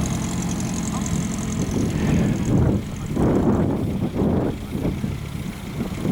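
A car engine runs steadily for about two seconds, then gives way to uneven low rumbling gusts, like wind buffeting the microphone.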